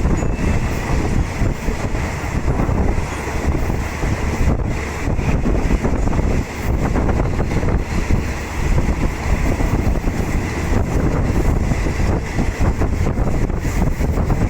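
Ride noise inside a moving passenger train carriage: the steady rumble of wheels on rails with wind buffeting the microphone.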